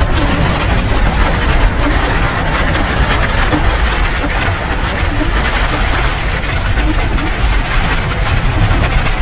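Steady rain: a dense, even hiss with a heavy low rumble underneath.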